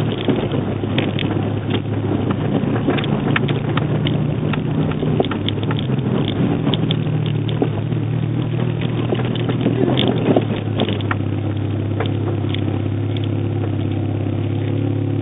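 Fiat Seicento 1.2 8V four-cylinder engine running under way, heard from inside the cabin, its pitch stepping up and down a few times and holding steady over the last few seconds. Frequent short clicks and knocks sound over it.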